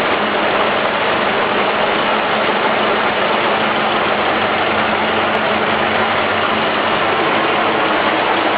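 GAZ-67's four-cylinder flathead engine running steadily at idle.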